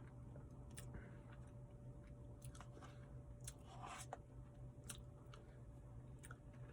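A person quietly eating a Reese's Blizzard: faint chewing and mouth sounds with scattered soft clicks, over a low steady hum.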